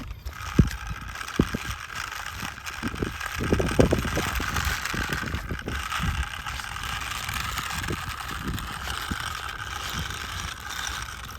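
Toy tractor pulling a tanker trailer, being run along the ground: a steady whirr with irregular knocks and rattles, loudest a few seconds in.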